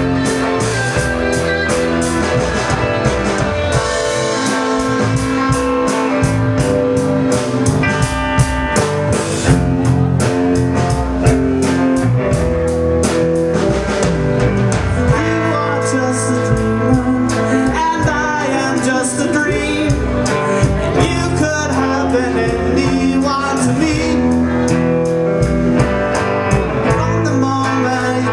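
Live blues-rock band playing an instrumental break: guitar over bass and a drum kit.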